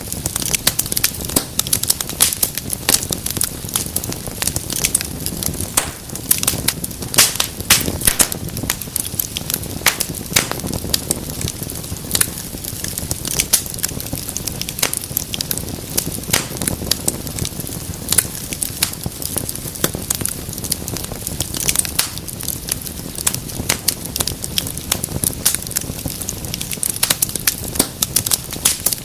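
Wood fire burning in a fireplace, with dense, irregular crackles and pops over a steady low rumble of flame.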